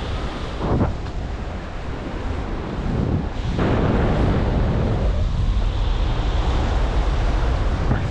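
Wind buffeting the microphone over a steady rush of falling water from the waterfall, growing louder about three and a half seconds in.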